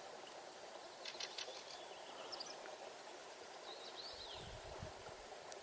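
Faint steady rush of a river, with small birds chirping now and then over it. A few low thuds come in near the end.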